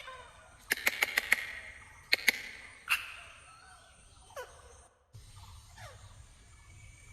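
Parrot making a run of sharp clicks in quick clusters, then a few short calls that fall in pitch.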